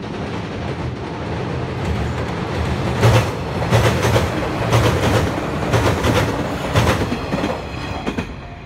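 JR West 115 series electric train passing over a steel girder bridge, its wheels clattering over the rail joints in double beats about once a second. The sound builds as the train nears and fades near the end as the last car passes.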